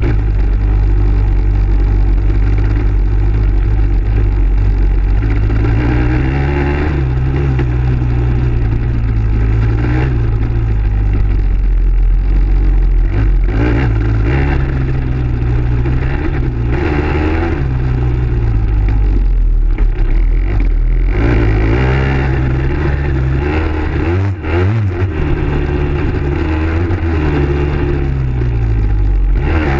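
Dirt bike engine being ridden hard, its pitch climbing and then dropping again and again as it revs up and shifts or backs off, with a brief lull about three quarters of the way through.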